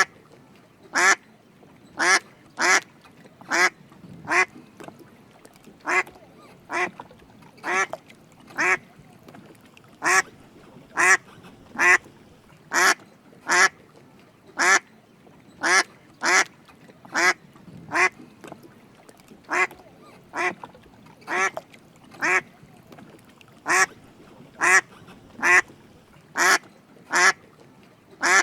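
Drake mallard quacking: short single quacks about once a second, unevenly spaced, sometimes two in quick succession.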